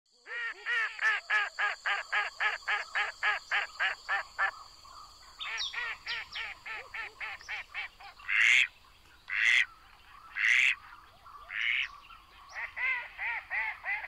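Birds calling: a fast run of about sixteen short pitched notes, about four a second, then softer notes, then four loud harsh calls about a second apart, and another quick run near the end. A steady high tone runs under the first five seconds.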